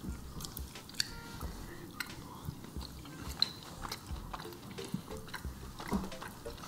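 Mouth sounds of someone chewing a soft, sticky mochi ball: small wet clicks and smacks, scattered irregularly.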